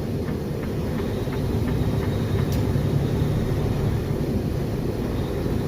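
Steady low rumble of a semi truck's engine and tyres, heard from inside the cab while driving on a snow-packed road.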